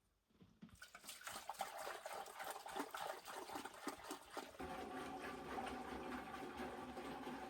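Water being poured into a container. It starts abruptly about a second in and settles into a steadier, ringing fill about halfway through.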